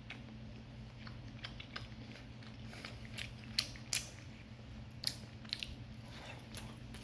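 A person chewing a piece of breaded popcorn chicken, reheated crisp in an air fryer, close to the microphone: irregular soft crunches and mouth clicks, the sharpest a little past halfway through, over a low steady hum.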